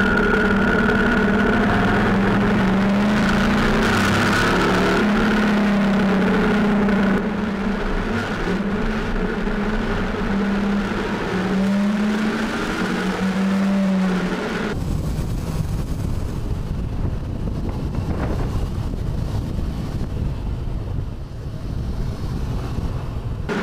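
Motorcycle engine running at a steady road speed, its note drifting slightly up and down. About 15 seconds in, the engine tone fades under rough wind rumble on the microphone.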